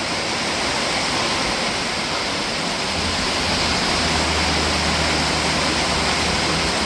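Heavy rain pouring down in a loud, steady hiss, with a low steady hum joining about three seconds in.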